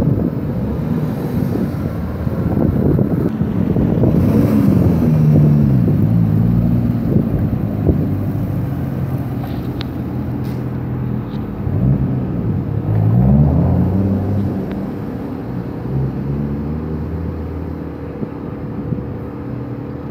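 Sports car engines, among them a Nissan 350Z's 3.5-litre V6, accelerating away one after another. The engine notes repeatedly climb and drop as the cars rev and change gear, loudest about five seconds in and again around thirteen seconds.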